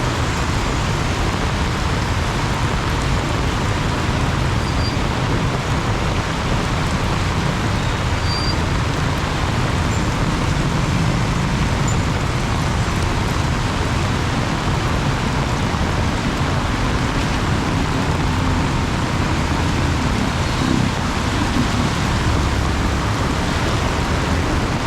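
Heavy rain pouring steadily, mixed with the low rumble of road traffic.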